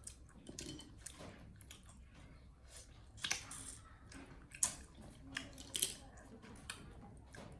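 Monkeys chewing and handling food: irregular small clicks and crunches, with three louder brief crackles through the middle.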